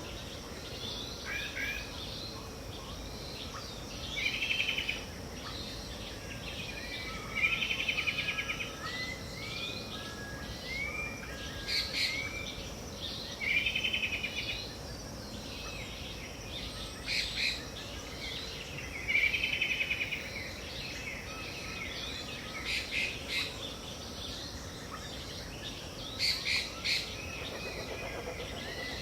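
Wild birds singing in the Pantanal: a short rapid trilled phrase repeats about every three seconds, with sharp single call notes in between, over a steady high background hiss.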